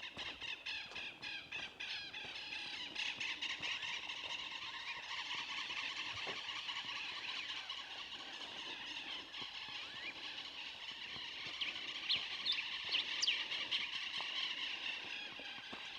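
Many birds calling at once in a dense, continuous chorus of chirps and squeaks, with a few louder sharp calls near the end.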